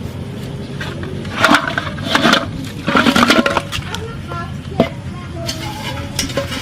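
A person's voice in several short, loud bursts over a steady low hum, with a single sharp click about two-thirds of the way through.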